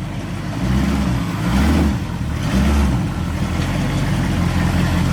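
Vehicle engine running at low speed while the vehicle is slowly manoeuvred, with a few brief rises and falls in revs between about one and three seconds in.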